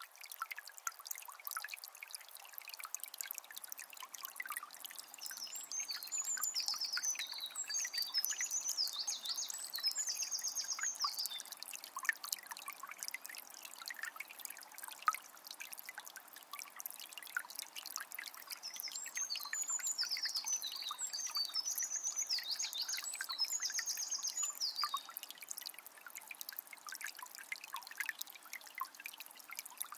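Small forest river flowing and trickling with fine splashing. A songbird sings a long phrase of high twitters and fast trills twice, once a few seconds in and again past the middle.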